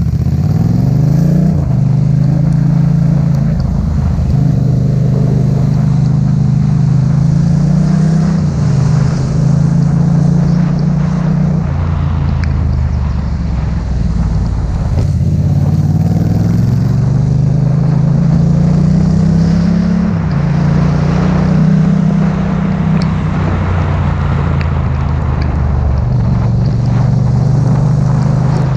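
Yamaha MT-07's 689 cc parallel-twin engine running on the move, its pitch climbing as it accelerates about a second in and again around two-thirds of the way through, and holding steady between, over a steady hiss of wind and road noise.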